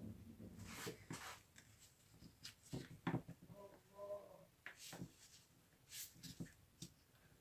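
Faint clicks and light knocks of small parts and tools being handled on a workbench, with a brief faint tone about halfway through.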